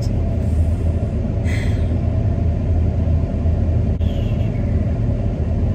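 Steady low rumble of a car engine idling, heard from inside the cabin, with a brief rustle about one and a half seconds in.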